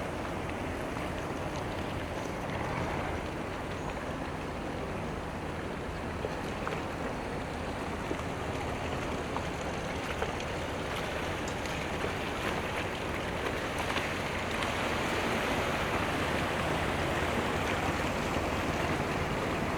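Steady harbourside ambience of moving water and boat motors, growing slightly louder in the last few seconds, with a few faint clicks.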